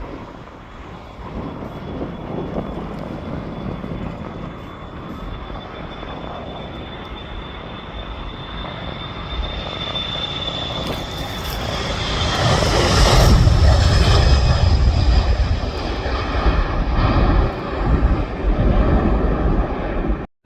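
Fixed-wing aircraft engines passing close. A steady high whine gives way to a rumble that builds to its loudest about two-thirds of the way through, then eases off and cuts off abruptly at the end.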